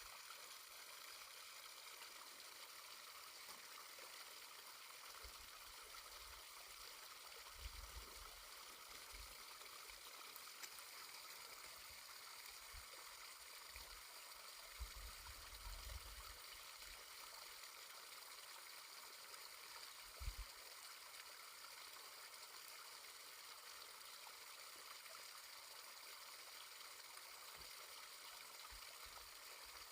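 Faint, steady rush of a distant forest stream, with a few soft low thumps scattered through.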